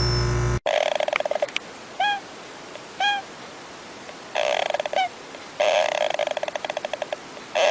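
A steady electronic tone cuts off about half a second in, followed by an animal's calls: bursts of rapid stuttering calls, with two short chirps between them.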